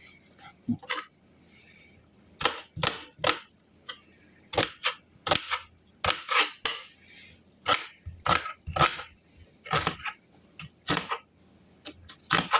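A kitchen knife chopping onion on a cutting board: irregular sharp knocks of the blade against the board, about two or three a second.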